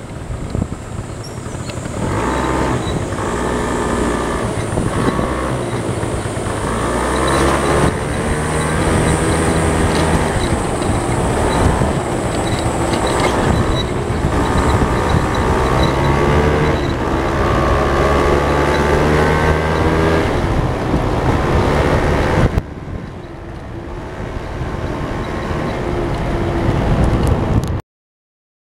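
A vehicle engine being driven, its pitch repeatedly rising and falling as it speeds up, shifts and slows, with road and wind noise. It drops suddenly about three-quarters of the way through, climbs again, then cuts off abruptly near the end.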